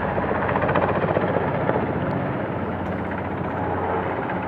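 A helicopter's rotor beats in a fast, steady chop over a continuous engine hum. The sound is slightly louder around the first second or two.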